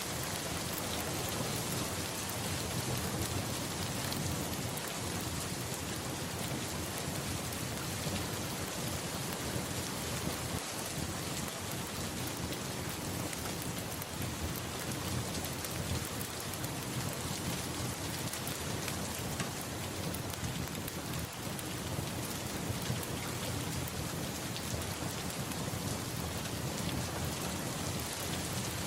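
Steady rain falling on surfaces, with a low rumble of distant thunder underneath.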